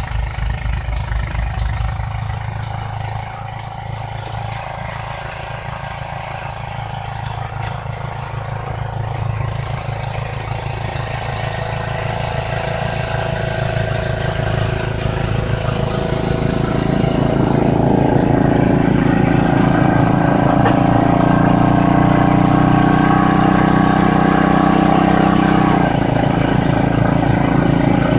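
Ariens snowblower engine running steadily, growing louder through the middle and then holding at full volume.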